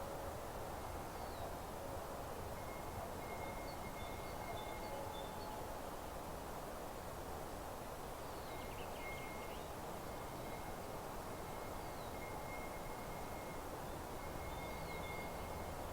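Outdoor meadow ambience: a steady soft hiss with faint birdsong. Short high falling chirps come every couple of seconds, with a thin steady high note held for several seconds at a time.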